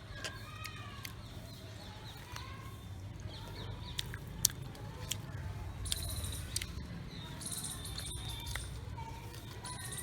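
A pet ringneck parrot giving short chirps and a few high, hissy screeches, with scattered sharp clicks, one louder click about halfway through.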